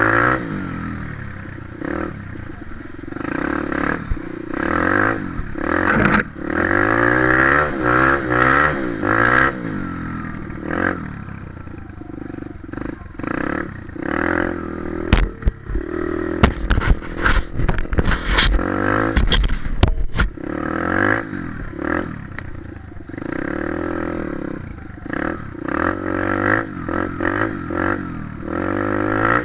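Dirt bike engine revving up and down repeatedly as it rides, with a run of knocks and rattles about halfway through.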